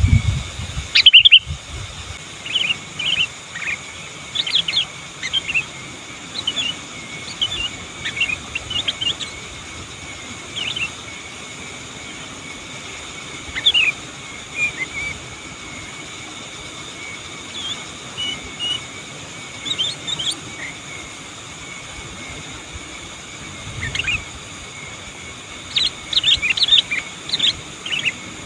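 Sooty-headed bulbul calling in short, scattered bursts of chirps, loudest about a second in and in a quick cluster near the end, over a faint steady hiss and a thin high tone.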